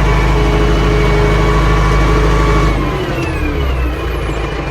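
AGCO 6670 loader tractor's diesel engine running steadily under load, its pitch falling about three seconds in as the revs drop.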